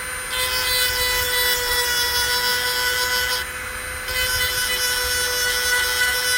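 Small high-speed power grinder running with a steady whine while it sharpens a hedge trimmer blade's teeth, metal grinding on metal in two passes of about three seconds each with a brief pause between them.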